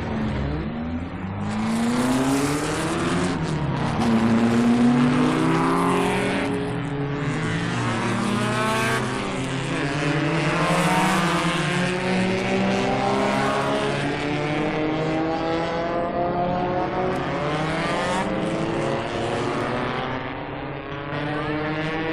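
Several racing car engines running hard at once, their pitches climbing and dropping as they accelerate, shift and pass. The sound is continuous, with steep rising sweeps and overlapping engine notes.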